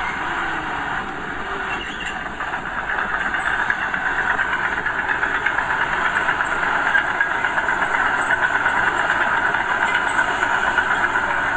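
Diesel engine of earthmoving machinery running with a fast, rough pulse, growing louder a few seconds in and holding there.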